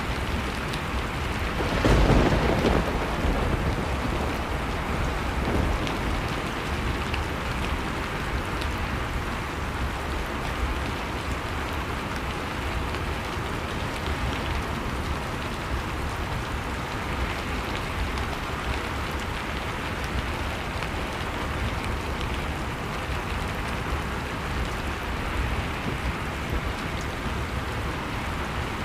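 Storm ambience: a steady noise of wind-driven snow with scattered crackles from a fireplace, and a loud low rumble swelling about two seconds in.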